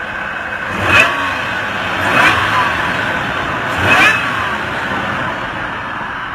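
A TRD-supercharged truck engine idling, blipped three times: each quick rev rises and falls with a supercharger whine, about a second, two seconds and four seconds in.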